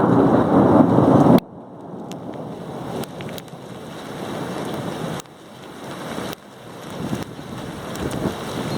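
Thunderstorm: a loud low rumble, with wind on the microphone, cuts off abruptly about a second and a half in, leaving steady rain with scattered ticks of drops.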